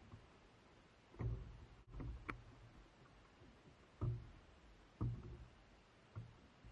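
Several dull knocks at uneven intervals, with one sharp click about two seconds in, over a quiet background.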